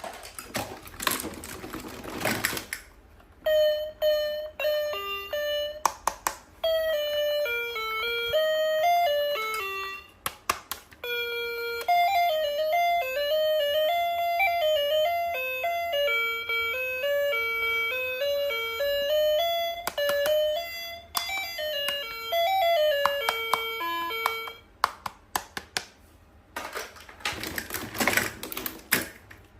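A toy's electronic melody: a simple beeping tune of single notes that plays for about twenty seconds. There is brief handling noise just before the tune starts and again near the end.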